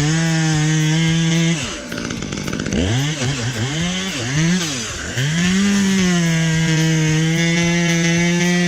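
Chainsaw engine running at a steady high pitch. About two seconds in, its revs drop and surge up and down several times, then climb back to a steady high pitch for the rest of the time.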